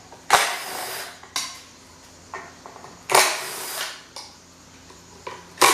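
Metal tool and pump parts clanking on a workbench: four sharp knocks, the ones about a third of a second in and about three seconds in followed by a short clatter.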